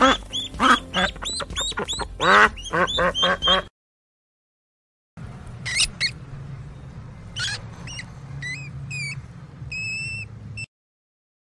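Ducks quacking in a quick series of calls for the first few seconds. After a short break, a second stretch of sparser, higher-pitched calls over low background noise.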